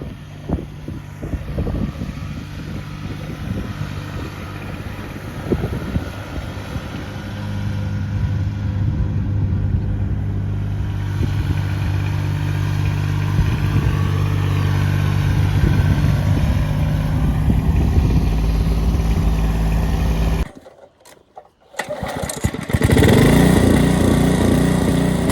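An engine running steadily, growing louder about seven seconds in. Near the end it cuts out abruptly for about two seconds, then an engine is heard running again.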